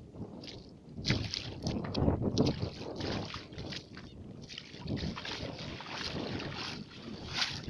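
Water sloshing and splashing in irregular bursts, with gusty wind rumbling on the microphone.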